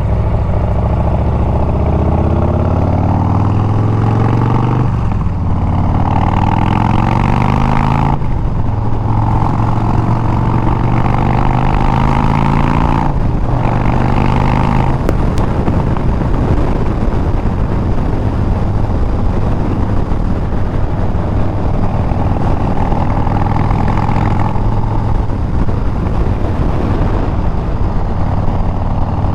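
Harley-Davidson Milwaukee-Eight 114 V-twin on Bassani straight pipes, accelerating through the gears. Its pitch climbs with a brief drop at each of three upshifts in the first half, then holds a steady cruise.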